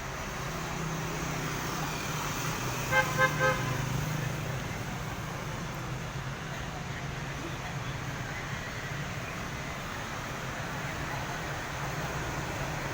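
Three short, pitched horn-like toots in quick succession about three seconds in, over a steady low hum.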